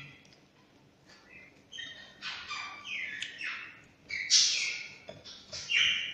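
Birds chirping and squawking in short, quick falling calls, one after another, starting about a second and a half in and growing louder from about four seconds in.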